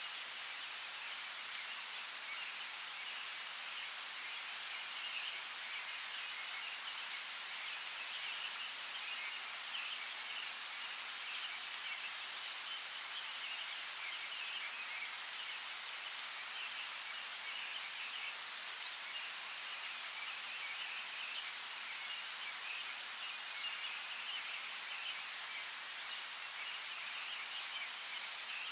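Steady rain falling, with birds chirping.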